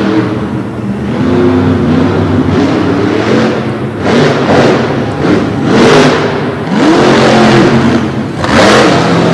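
Monster truck engine revving hard, its pitch climbing and falling again and again, with loud surges about midway and near the end.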